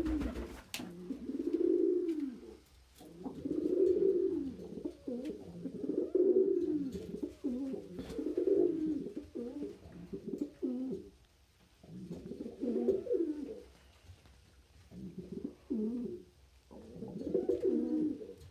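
Domestic pigeon cooing over and over: low, swelling coos that rise and fall, one about every two seconds.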